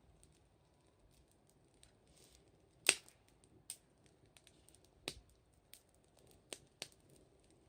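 Wood fire crackling: scattered sharp pops, the loudest about three seconds in, then a handful of smaller ones over the next few seconds.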